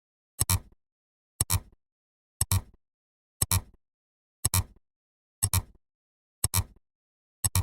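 A short, sharp double-click sound effect, repeated evenly about once a second, eight times in all.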